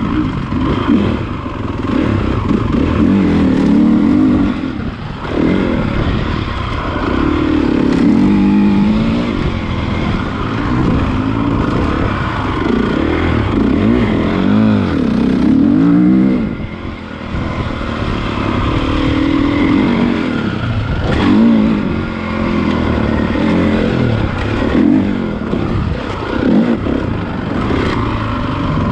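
Honda CRF450 motocross bike's single-cylinder four-stroke engine, revving up and falling back over and over as the bike is ridden, with the throttle briefly closed a couple of times.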